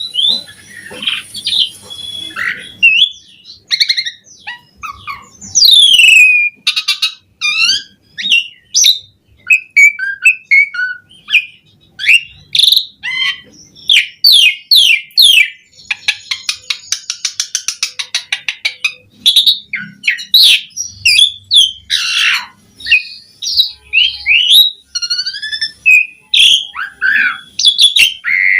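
Asian pied starling singing a long, varied song loaded with mimicked phrases: whistled notes that slide up and down, squeaky calls and fast runs of clicking notes.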